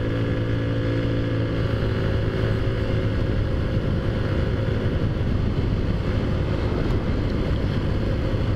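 Taotao Zummer scooter's small four-stroke engine running at a steady cruising speed, an even hum with wind rush over it.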